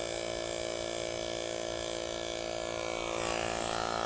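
Portable powered tire pump running steadily as it inflates a bike's rear tire, a continuous mechanical hum with a fast chatter. It grows a little louder about three seconds in.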